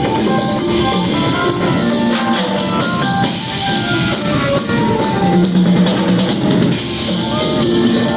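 Rock band playing live: drum kit and electric guitar, with cymbal crashes washing over the mix twice.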